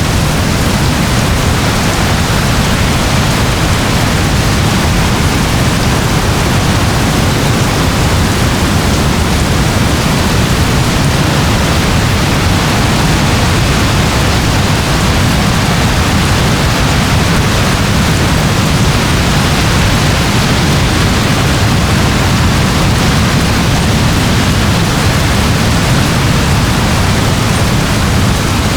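Steady rain, an even, unbroken hiss with a deep rumble beneath it and no separate drops or thunder standing out.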